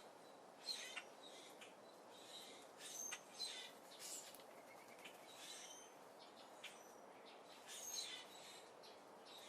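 Small birds at a seed feeder chirping faintly, in short high calls scattered irregularly over a soft background hiss.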